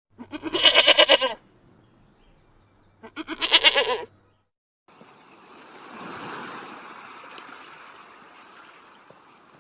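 Two loud, quavering bleats about two seconds apart, each lasting about a second, from a goat or sheep. After them comes a soft rushing noise that swells and slowly fades.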